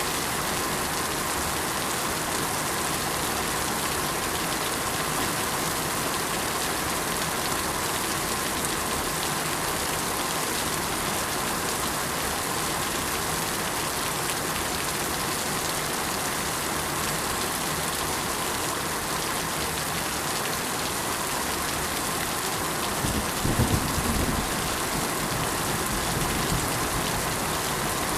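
Steady rain, an even dense hiss of drops, with a short low rumble about three-quarters of the way through.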